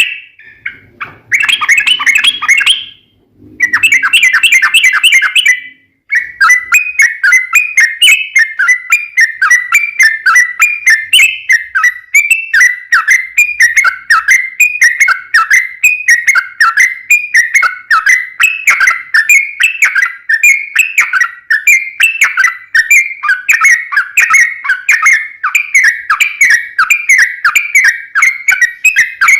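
Yellow-vented bulbul (trucukan) singing a long, rapid chattering song, repeated phrases of quick notes about twice a second. It comes in short bursts at first, then runs unbroken from about six seconds in.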